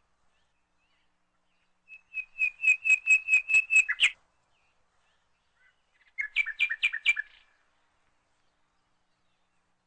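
A bird chirping: a quick run of about a dozen repeated, clear notes about two seconds in, then a shorter run of chirps about six seconds in.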